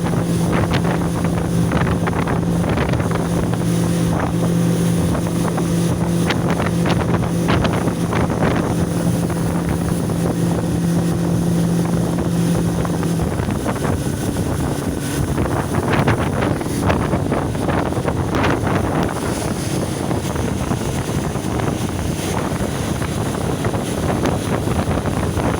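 115 hp outboard motor on an 18-foot boat running at low speed, a steady hum that drops away about halfway through. Wind buffets the microphone throughout in gusts.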